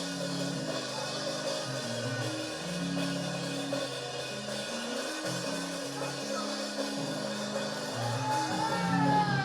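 Live church praise music played on a drum kit, with a bass line of held low notes moving step by step. A single high sliding line, like a voice calling out, rises over the music near the end.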